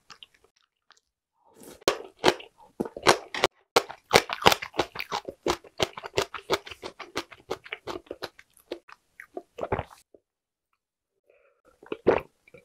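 Close-miked chewing of ripe green onion kimchi (pa-kimchi): dense wet, crunchy bites and chews for about eight seconds. Near the end come a few gulps of water from a glass.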